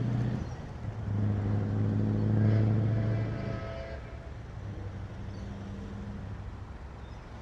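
Heavy truck's diesel engine driving past with a steady low drone, loudest in the first few seconds, then fading as it moves away.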